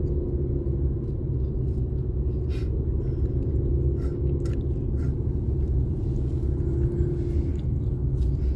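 Car interior while driving: a steady low engine and road rumble with a constant hum, heard from inside the cabin.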